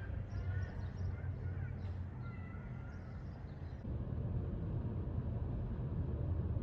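Birds chirping over a steady low rumble; about four seconds in the birds stop abruptly and a slightly louder steady low rumble carries on.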